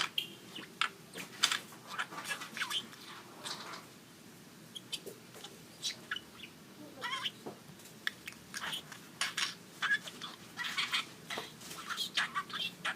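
Pet talking bird chattering in short bursts of speech-like mimicry and chirps, imitating Japanese words. There is a pause of a few seconds near the middle.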